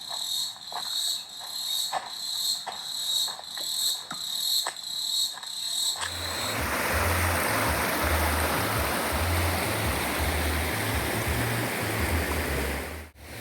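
A rainforest insect (cricket or cicada) trills high and steadily, pulsing about twice a second, with soft clicks beneath. About six seconds in it cuts suddenly to the loud, even rush of a waterfall on a forest stream, with a low rumble under it.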